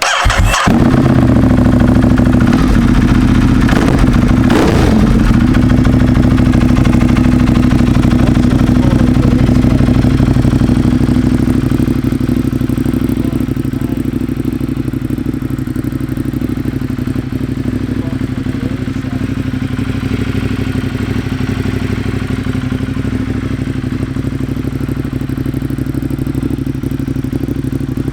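Ducati Monster 1200R's L-twin engine, breathing through new Termignoni carbon-fibre mufflers, cranks briefly and catches at once, then idles with a short throttle blip about four seconds in. The idle eases down a little after about twelve seconds as it settles.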